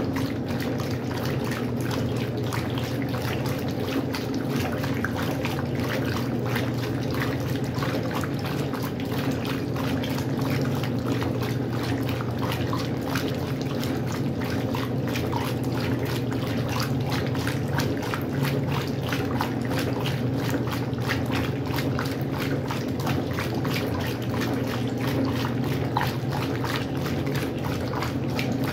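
Westinghouse washing machine with water pouring and splashing in the tub, over a steady low hum.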